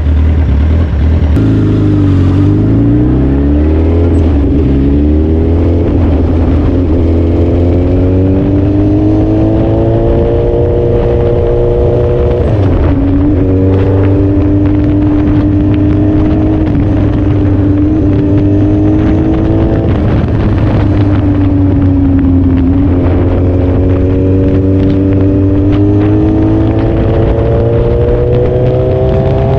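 Suzuki Hayabusa's inline-four engine pulling away from idle and accelerating, its pitch climbing steadily. The pitch drops sharply at an upshift about twelve seconds in, climbs again, dips around twenty-two seconds and rises once more.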